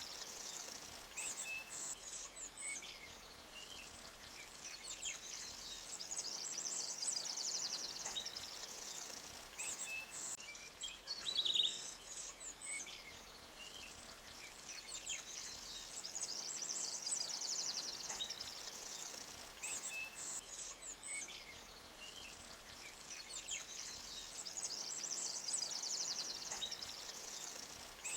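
Songbirds singing in a forest: a high, fast trilled phrase of about three seconds recurs every eight or nine seconds, with short chirps in between. Beneath it is a faint, even hiss of flowing creek water.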